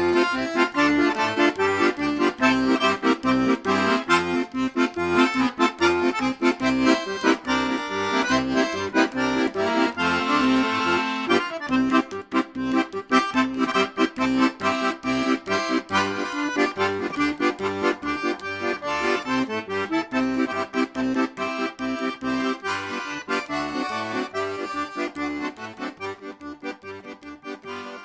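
Accordion playing a tune: a melody over held chords and a steady pulsing bass, fading out over the last few seconds.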